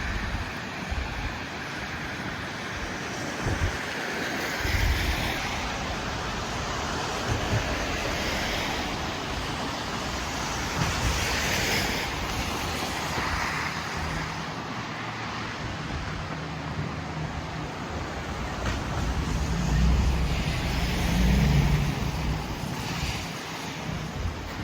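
Blizzard wind blowing and buffeting the microphone in gusts, over a steady wash of city street traffic. A vehicle's engine hum swells near the end.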